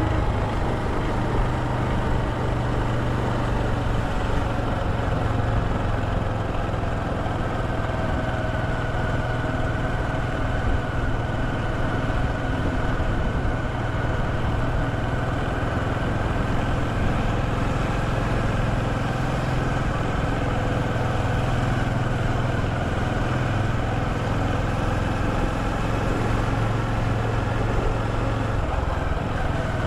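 Motorcycle engine running steadily, its pitch drifting slowly up and down, over a constant rush of road and wind noise.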